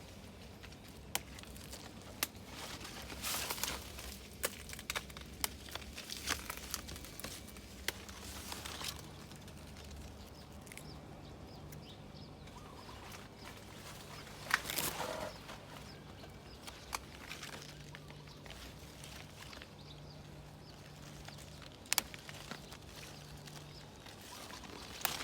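Young kradon shoots being picked by hand: scattered sharp snaps of stems breaking off with short bursts of leaf rustling, the loudest rustle about halfway through.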